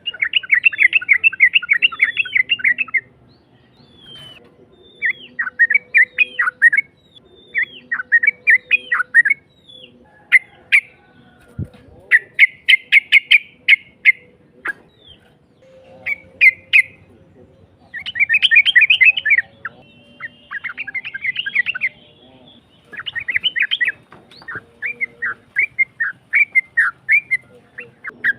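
Yellow-vented bulbul (trucukan) song: loud, rapid, rough chattering phrases of one to three seconds each, repeated with short pauses.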